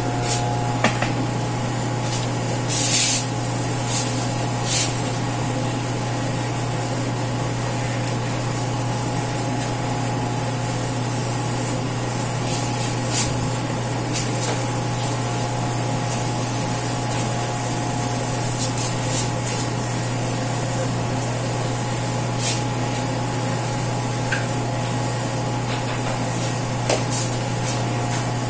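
Household cleaning: a few short, hissing squirts of a spray bottle and wiping with a cloth, over a steady low hum.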